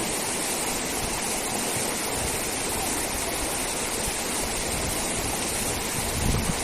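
River water rushing steadily, a constant wash of noise with a deeper rumble coming in about two seconds in.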